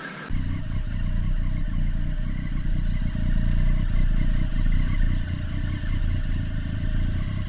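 Motorcycle riding sound picked up by the rider's camera: a steady engine note over a deep low rumble, starting abruptly just after the beginning.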